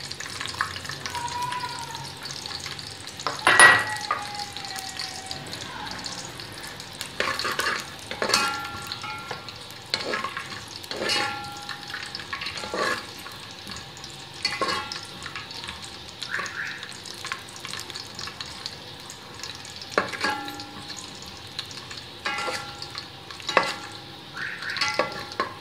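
Coconut, raisins and almond slivers sizzling in hot ghee in an aluminium pot, frying crisp. A slotted spoon stirs them and scrapes and knocks against the pot every second or two, with one louder knock about three and a half seconds in.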